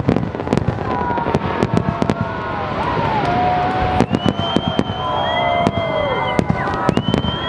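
Fireworks salute: rapid sharp bangs in the first second or so and again near the end, over a crackling haze, with long whistling tones through the middle, some falling in pitch and some held steady.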